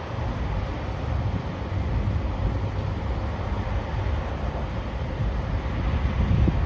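Z3-class tram running along the track: a steady low rumble of wheels on rails and running gear, with a faint steady hum above it and a few small knocks near the end.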